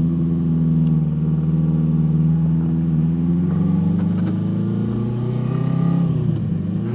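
Honda CB750 motorcycle's air-cooled inline-four running under way in traffic, its engine note holding steady, dipping near the end and picking up again, over low wind rumble.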